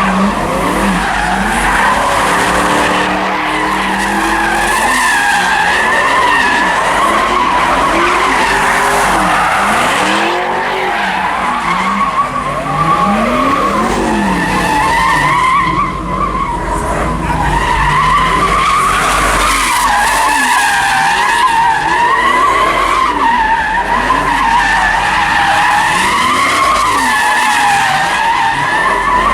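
Car tyres squealing in a continuous wavering howl as cars spin donuts, with engines revving up and down again and again underneath.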